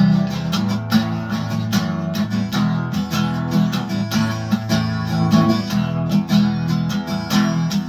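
Acoustic guitar strummed in a steady rhythm, playing an instrumental passage of a pop-rock song.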